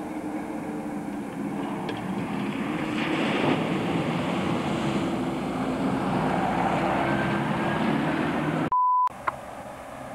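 First-generation Mitsubishi Pajero's engine running as the jeep drives past close by on a dirt track, growing louder over the first several seconds. Near the end a brief steady beep cuts in over everything at an edit, followed by a click, and the engine is then heard more faintly.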